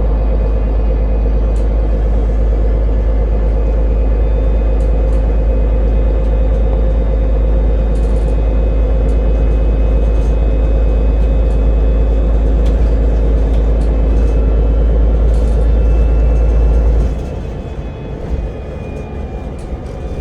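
Ride noise of a route-42 public transport vehicle in motion: a steady deep rumble with a constant hum, which drops away abruptly near the end as the noise eases off.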